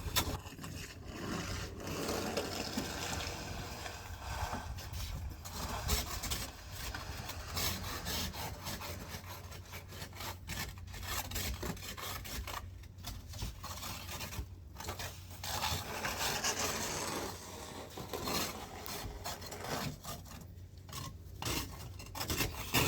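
Irregular, repeated scraping of frozen snow and ice, rough rasping strokes in quick succession.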